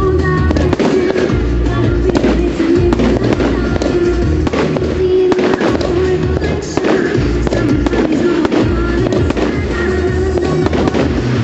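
Firework display: repeated bangs and crackling bursts over music played through loudspeakers.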